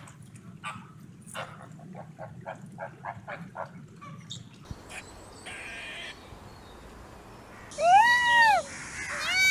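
Animal calls: a run of short, quick clicking calls, then, after a cut, a loud arching call that rises and falls at about eight seconds, followed by shorter repeated calls of the same shape near the end.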